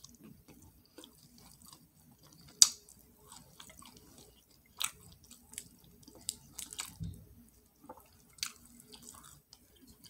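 Wet chewing and lip-smacking of someone eating catfish: scattered small mouth clicks and smacks, one sharper click about two and a half seconds in.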